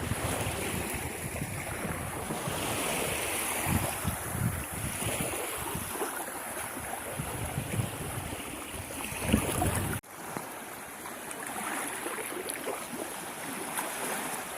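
Sea waves washing onto the beach with wind buffeting the microphone in uneven low gusts; about ten seconds in the sound cuts abruptly to a quieter, steadier surf.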